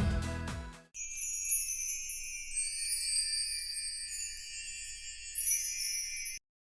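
Background music dies away in the first second, then a high, glittering chime-and-jingle sound effect lasting about five seconds, which cuts off suddenly.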